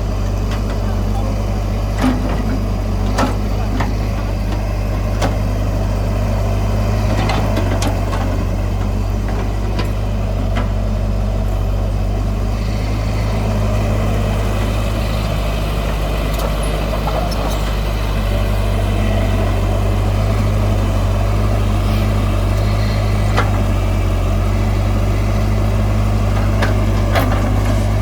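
Heavy diesel engine of earth-moving machinery running steadily, with scattered sharp metallic clicks and knocks.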